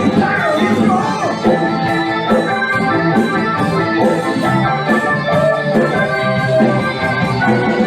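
A band playing an instrumental passage, with steady held chords that sound like an electronic organ.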